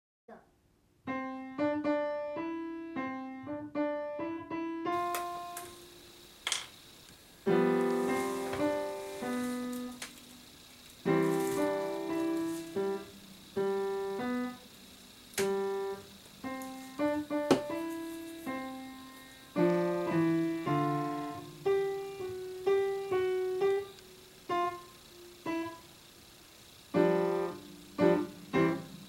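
Solo piano music: phrases of single notes and chords, each struck and ringing away, with short pauses between phrases.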